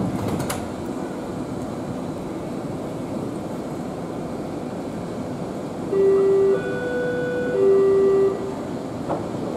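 Three-note electronic chime, low, higher, then low again, sounding about six seconds in over the steady rumble of a train.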